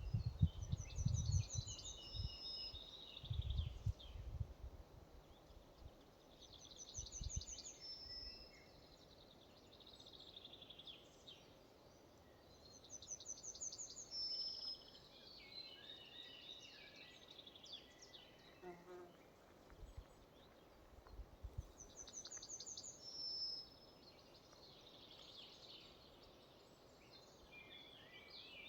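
A songbird in a forest repeating a short song phrase about every six to seven seconds: a quick high trill followed by lower notes. Other birds call faintly in between. Low rumbles come in the first few seconds and again briefly about twenty seconds in.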